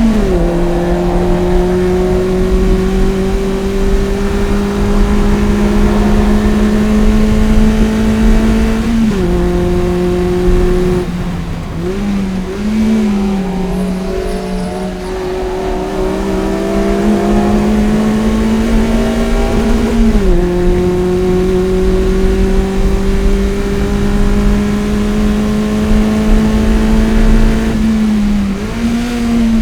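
Toyota MR-S's 1ZZ-FE 1.8-litre four-cylinder, with a header and Fujitsubo exhaust, pulling hard at high revs on track. The pitch climbs slowly through long pulls and drops sharply at upshifts, once just after the start and again about two-thirds of the way through. The engine lifts off and wavers in the middle, and a sharp rise in revs near the end sounds like a downshift blip.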